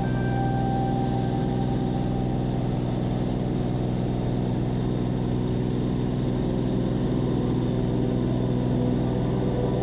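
Seaplane's piston engine and propeller droning steadily at a constant pitch.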